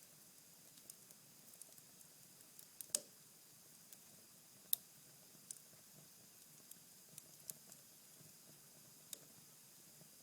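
Cherry-wood fire in a fireplace, burned down to embers, crackling faintly with scattered small pops. Two sharper snaps stand out, about three seconds in and just before five seconds.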